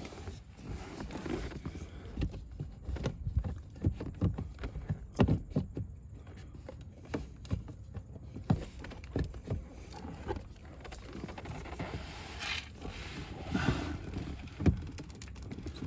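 Irregular knocks, clicks and plastic rattles from hands handling a blower motor and its plastic housing under a truck dashboard as the motor is plugged in and fitted into place.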